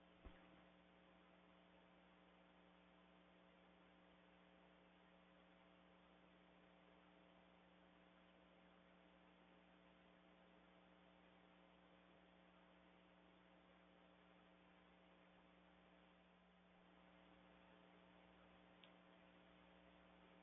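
Near silence: a faint steady electrical hum, with one soft click just after the start.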